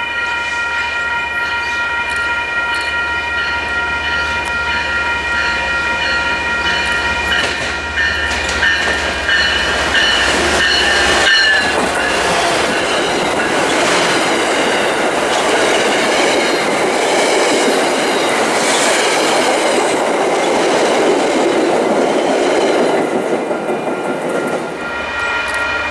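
Railroad grade-crossing bell ringing steadily, then about eleven seconds in a diesel-hauled commuter train passes close by, its locomotive and coaches loud on the rails for about twelve seconds. Near the end the train has gone and the crossing bell rings on alone.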